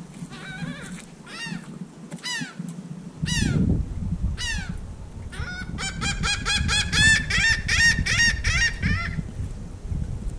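A bird calling repeatedly in short downward-sliding notes, spaced out at first, then running together quickly from about six seconds in. A low rumble comes in about three seconds in.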